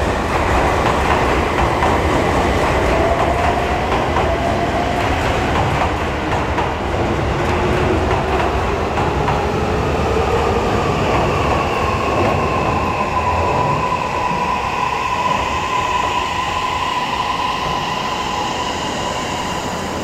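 Toei Mita Line 6500 series train running in and braking, its Mitsubishi hybrid SiC VVVF inverter giving a whine whose tones slide in pitch over the train's running noise, slowly easing.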